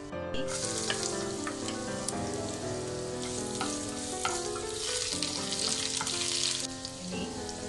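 Chopped ginger dropped into hot oil with chana dal and cumin in a nonstick frying pan, sizzling as a tempering while a spatula stirs and scrapes it. The sizzle starts about half a second in and eases off near the end.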